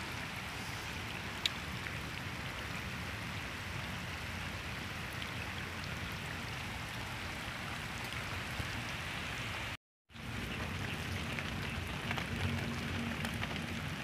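Steady rain falling, an even hiss of drops with no break in its pattern; the sound cuts out for a moment about ten seconds in and then resumes.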